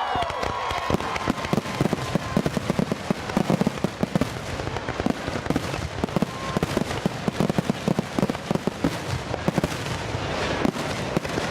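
Fireworks going off in a rapid, continuous string of sharp bangs and crackles, many a second.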